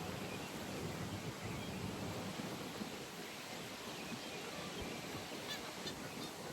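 Pond ambience: a steady hiss of background noise with faint bird calls, including a few short high chirps near the end.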